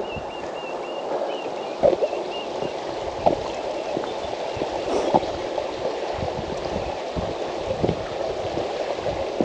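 River water running over rocks: a steady rush with small irregular gurgles and splashes.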